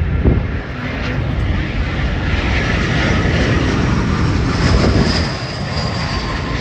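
Airbus A319 jet airliner taking off, its engines running at takeoff power as it passes. A thin high whine comes through about four and a half seconds in.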